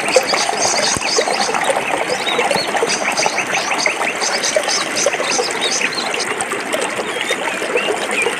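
Stream water flowing over rocks, a steady babbling with many small gurgles and splashes.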